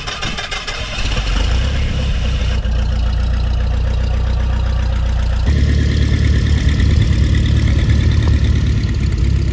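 Light aircraft engine starting and running at a low idle, growing louder about five and a half seconds in.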